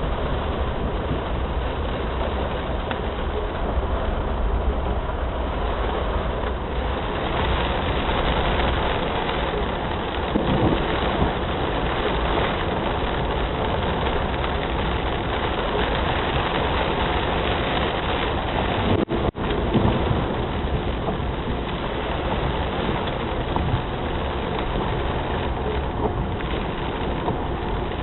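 Heavy rain falling steadily, a dense even hiss with a low rumble underneath; the sound cuts out for a moment about two-thirds of the way through.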